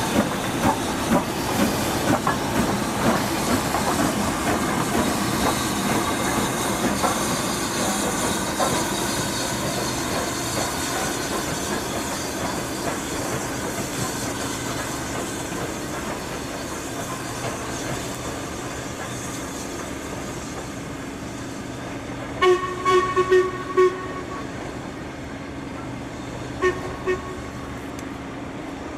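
A train running on jointed track, wheels clicking over the rail joints, the sound slowly fading. About two-thirds of the way through, the train's horn gives a few short toots, and it toots once more shortly after.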